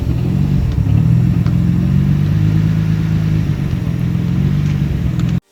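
Nissan Skyline GT-R R33's twin-turbo straight-six running steadily at low revs through an A'PEXi R95 full-titanium exhaust, with a deep, even exhaust note. It cuts off suddenly near the end.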